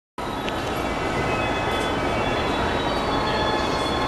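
Train noise inside a JR East E233-1000 series commuter car standing at a platform with its doors open: a steady rumble layered with several steady high electrical whines, starting abruptly just after the beginning.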